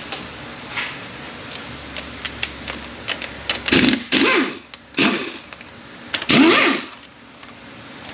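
A power tool spinning out the 12 mm center support bolts of an A650E automatic transmission in three short bursts, each with a gliding whir. Light clicks and taps of tool on metal come before the bursts.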